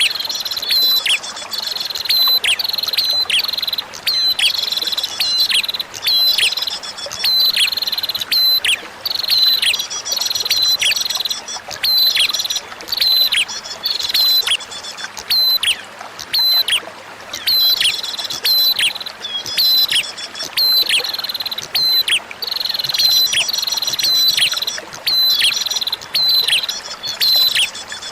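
Prinia (prenjak) song: rapid, high, repeated chirps with quick downward slurs, coming in bursts about a second apart, over a faint trickle of flowing water. It is a looped bird-therapy recording meant to make a quiet caged prinia sing.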